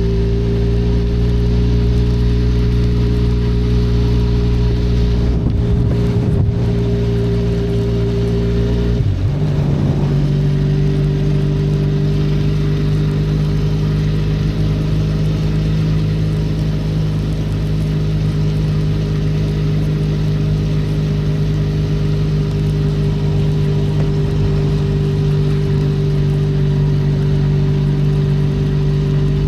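Benelli Leoncino 500's parallel-twin engine running steadily while riding. The engine note wavers briefly about nine seconds in, then settles.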